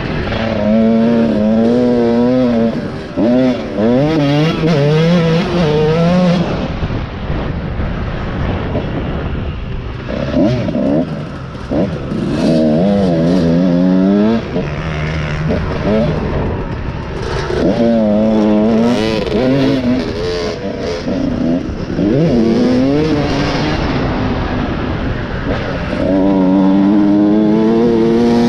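Motorcycle engine running under a rider, its pitch climbing and dropping again and again as the throttle is worked and gears change, over steady wind rush.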